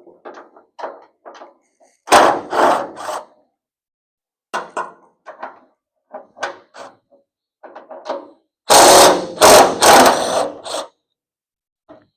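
Power wrench run in short trigger bursts, spinning out the hood hinge bolts. The loudest run of stop-start bursts comes after about nine seconds.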